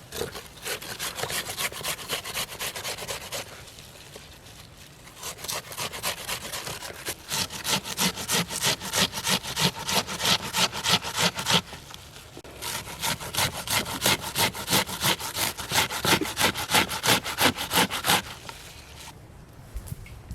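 Hand saw cutting through wood in quick back-and-forth strokes, about four a second, in four runs with short pauses between them.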